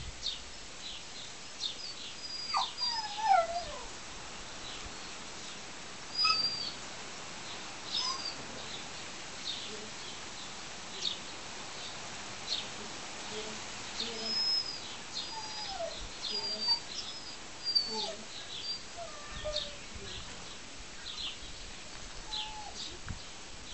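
Small birds chirping: short high chirps repeat every second or so throughout, mixed with curved whistled notes and a few lower falling calls.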